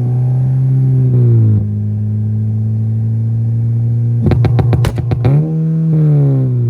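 Honda K20 inline-four engine in a Civic EK revved and held at a steady mid-range pitch, then a quick run of sharp pops from the exhaust about four seconds in, after which the revs rise briefly and fall away.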